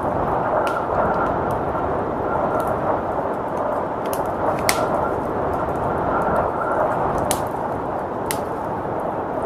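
A crackling wood fire, with scattered sharp pops and snaps, over a steady rushing roar of blizzard wind. Two of the pops, about halfway through and a little later, stand out as the loudest.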